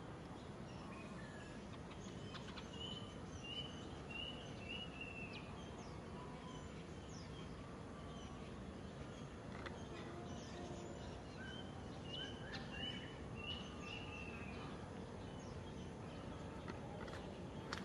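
Birds chirping outdoors, two runs of short, high repeated notes, a few seconds in and again past the middle, over a faint steady background hiss.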